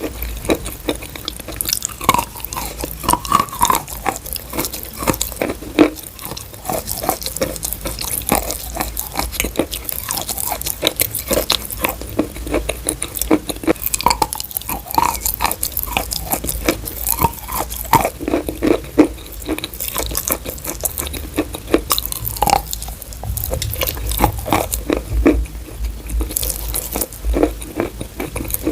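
Chalk being bitten and chewed close to the microphone: a continuous run of sharp crunches.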